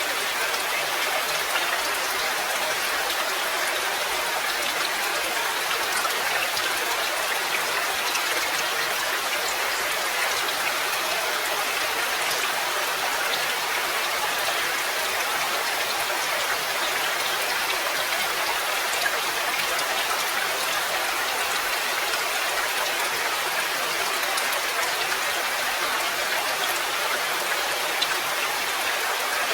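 Steady rain falling, a dense, even patter of raindrops with no change in strength.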